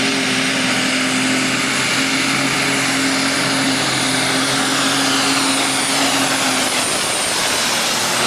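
Super stock diesel pulling tractor running flat out under load, a loud steady engine din topped by a high, steady turbocharger whine.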